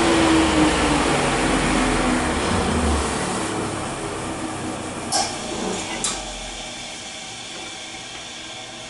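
Table saw running down after a cut, its whirring fading steadily over several seconds as the blade coasts to a stop. Two sharp knocks come about five and six seconds in.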